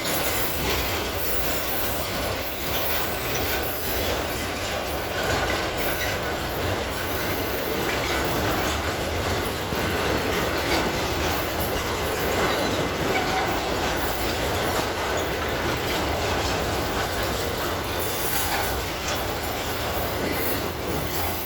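Freight wagons of a pulp train rolling past at steady speed: a continuous rumble of steel wheels on rail, with a faint high wheel squeal over it.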